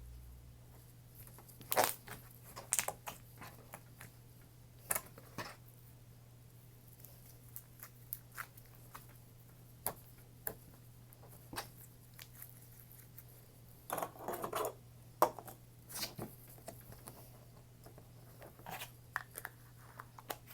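Slime with small Fimo pieces in it being handled and played with: scattered soft clicks and pops, with a longer crackly stretch about two thirds of the way through, over a faint steady hum.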